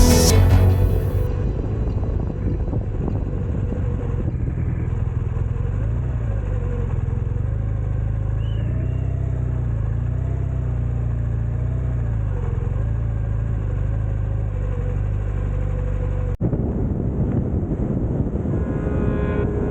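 Motorcycle engine running while riding, a steady rumble whose pitch wavers slightly with the throttle.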